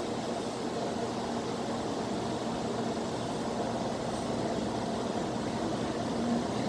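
Tokaido Shinkansen Nozomi train pulling into the station platform: a steady rumble of rolling and air noise with a faint steady hum, slowly growing louder.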